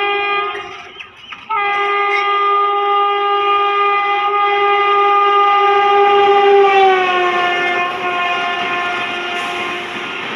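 Indian Railways locomotive horn sounding a long, loud blast with a short break about a second in; around seven seconds the pitch slides down as the locomotive passes, and the horn stops near the end as the rumble and clickety-clack of the passing train take over.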